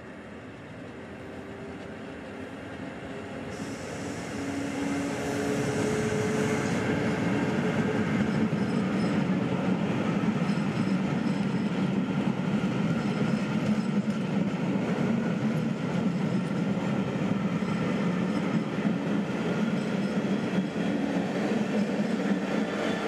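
A train on the line, growing louder over the first several seconds, then running past steadily with the noise of its wheels on the rails.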